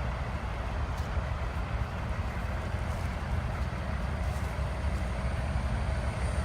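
Steady low rumble of idling truck engines at a truck rest area, with a few faint ticks.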